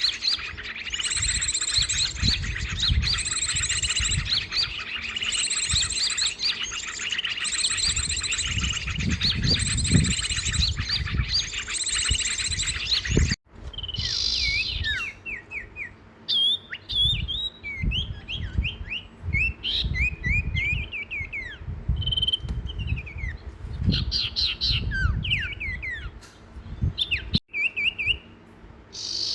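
Songbirds chirping and singing: a dense chorus of rapidly repeated high calls that breaks off abruptly about halfway through, followed by scattered short, down-sliding chirps and whistles. A low rumble runs underneath.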